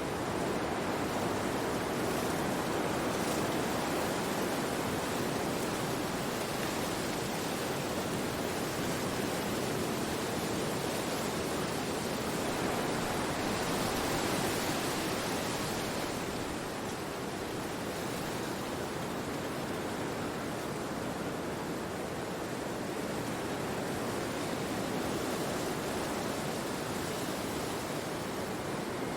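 Wind blowing through forest trees as a steady rushing noise that swells a little about halfway through, then eases.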